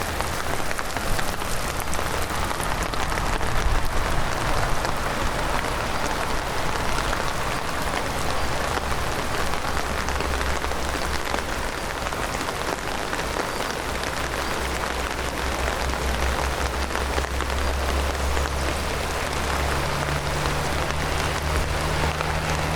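Heavy rain falling steadily in a dense, even hiss. Near the end a low steady hum joins it.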